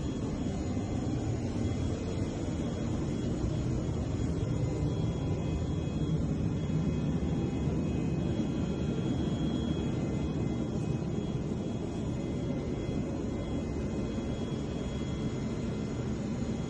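Steady rumble of a jet aircraft, with faint steady whining tones above it.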